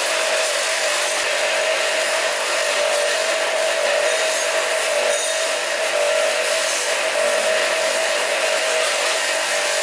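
A motor-driven machine running steadily: a constant whine over a loud hiss, with no change in speed.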